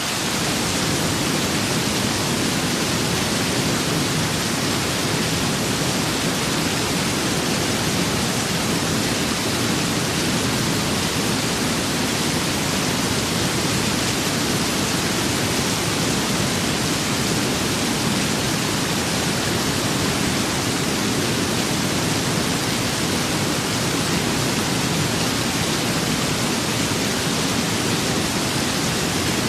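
Steady rain with wind: a dense, even rushing hiss that holds without change, with no thunder or separate drops standing out.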